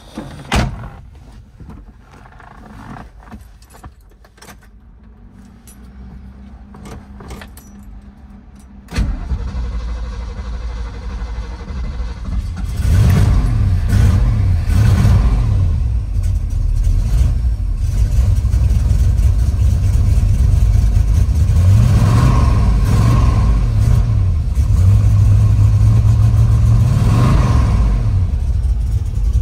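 1972 De Tomaso Pantera's Ford 351 Cleveland V8 cold-starting, heard from inside the cabin: a few light clicks, then about nine seconds in the engine catches and runs loudly. The revs rise and fall several times.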